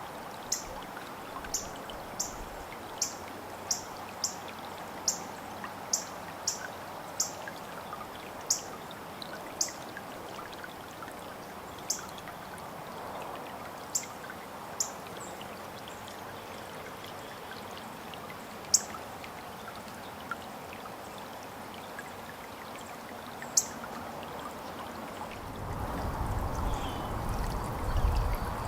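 Small songbirds giving sharp, high chip notes, about two a second at first, then thinning out to scattered single chips. Under them is a steady rush like running water, and a low rumble comes in near the end.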